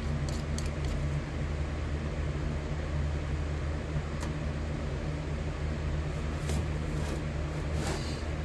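Steady electric hum with a low fan-like rush from a running electric melting furnace. A few light clicks come just after the start and again near the end.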